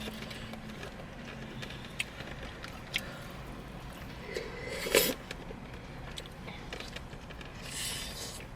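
Quiet eating sounds inside a car: scattered small clicks and taps of utensils and takeout containers, with one louder sharp sound about five seconds in and a short breathy rustle near the end.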